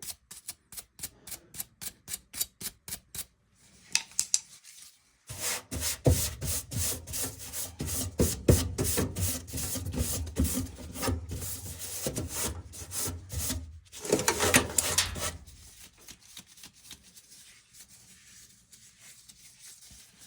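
A gas furnace burner being scrubbed with a brush to clean off rust. It starts as regular strokes, about four a second, turns into a louder, denser stretch of scrubbing through the middle, and fades to faint rubbing near the end.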